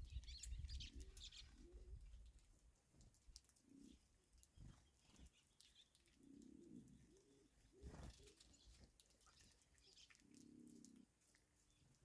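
Faint dove cooing: a few low, soft coos spaced a few seconds apart, with brief high chirps from small birds near the start.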